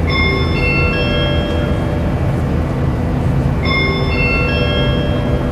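A multi-note airliner cabin chime rings twice, about three and a half seconds apart, over the steady low rumble inside an Airbus A380 cabin.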